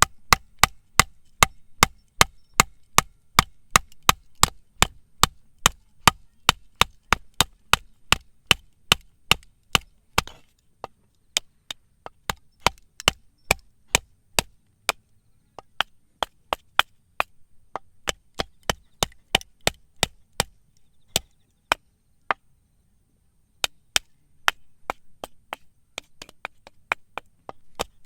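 A blade chopping on wood in a steady run of sharp strikes, about two or three a second, stopping briefly twice.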